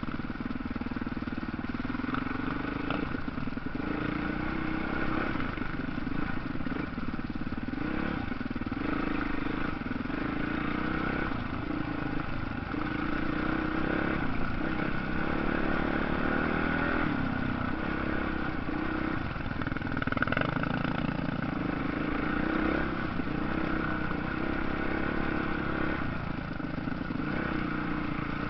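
Motocross bike engines running, their pitch rising and falling slightly.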